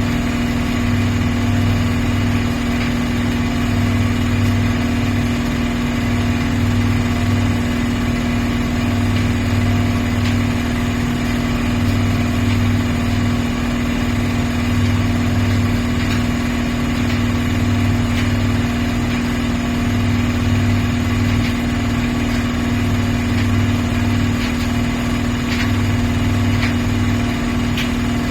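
Miele PW 6080 commercial washing machine running: a steady motor hum with a lower hum beneath it that cuts in and out about every two seconds.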